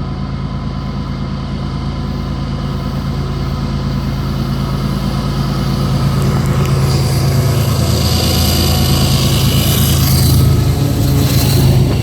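Diesel freight locomotive approaching and passing, its engine drone growing steadily louder. Higher-pitched rail and wheel noise joins in about halfway.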